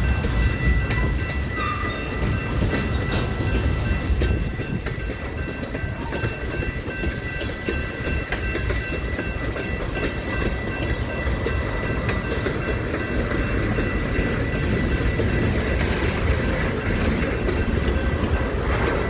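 A train rolling past: a steady low rumble with wheels clicking over the rail joints, and a steady high whine over it that fades out about three quarters of the way through.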